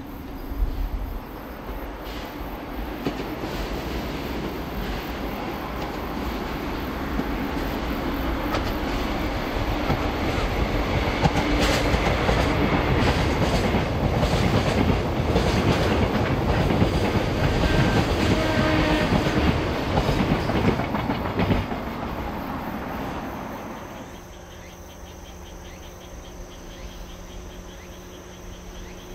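DD51 diesel-hydraulic locomotive hauling a freight train past, engine running under load and the wagons' wheels clicking over rail joints, growing louder to a long peak and dying away about three quarters of the way through. After it, a steady insect chirring.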